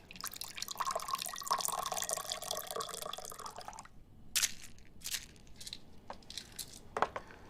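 Water running or being poured for about four seconds, then several separate light clicks or taps.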